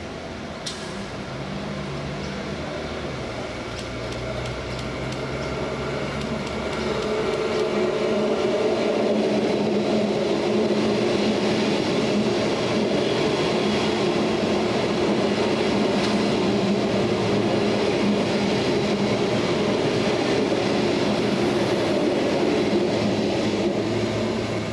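Electric multiple-unit suburban passenger train running past the platform: a steady hum from its traction motors over wheel and rail noise, growing louder from about seven seconds in and then holding steady.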